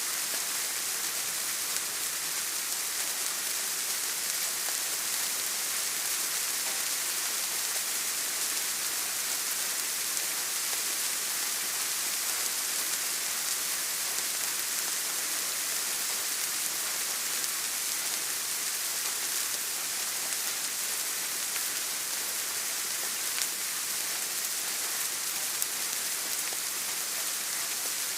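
Steady rain, an even hiss strongest in the high treble, with a couple of slightly louder drops near the end.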